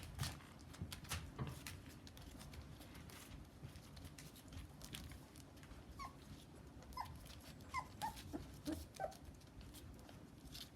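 Rough Collie puppies about four weeks old, making a string of short high whimpers and squeaks in the second half, amid light scuffling and knocks.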